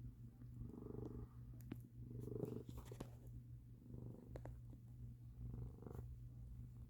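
Domestic cat purring close to the microphone: a steady low rumble that swells with each breath, about every second and a half, with a few faint clicks.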